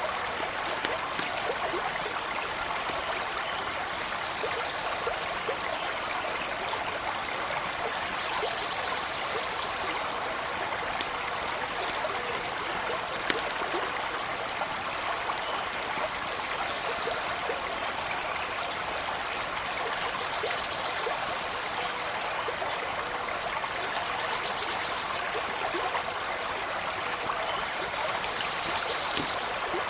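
Small creek running steadily over stones, with scattered sharp crackles and pops from a campfire, a few louder than the rest.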